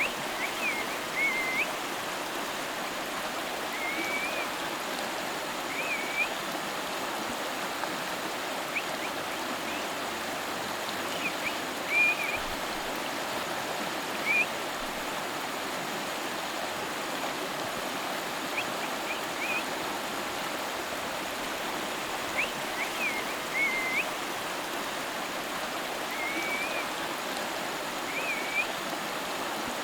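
A river flowing with a steady rushing sound. Short high chirps come every few seconds over it.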